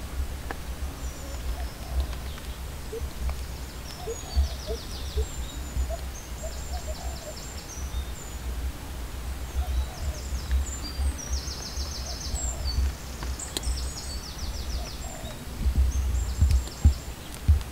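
Birds chirping and trilling in short high-pitched phrases, again and again, over a fluctuating low rumble.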